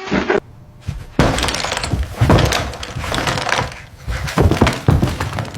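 A long, irregular run of crashes and clattering knocks, with ringing after the louder hits.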